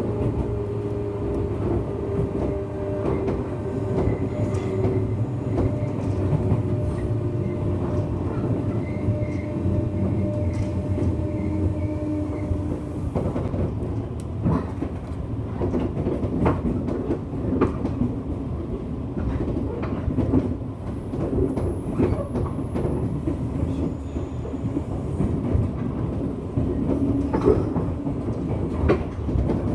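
Running noise inside a JR West 201 series motor car: the traction motors whine with a pitch that falls slowly over the first dozen seconds, which suggests the train is slowing. After that the wheels clatter over rail joints with many sharp clicks.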